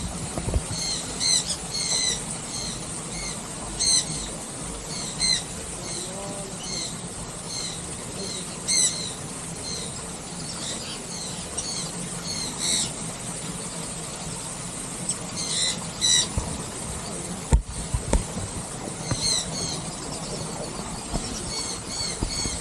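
Small aviary birds chirping: many short, high, squeaky calls come in quick clusters every second or two, with a lull about two-thirds through. A single low knock sounds about three-quarters through.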